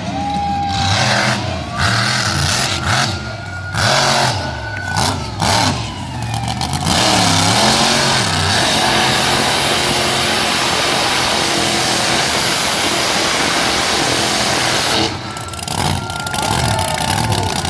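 Monster truck engine revving up and easing off several times. From about 7 to 15 seconds in, a loud, even rushing noise covers it.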